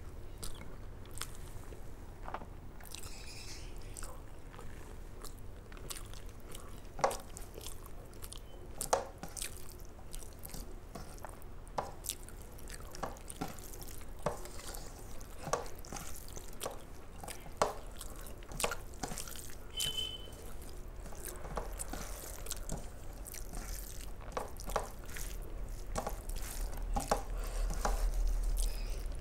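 A person chewing and eating rice with curry close to the microphone: wet mouth sounds with many short, irregular clicks.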